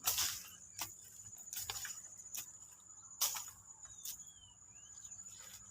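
Insects, likely crickets, trilling in a steady high-pitched drone. Scattered sharp clicks or rustles break through it, the loudest about three seconds in, and a couple of faint short falling chirps come near the end.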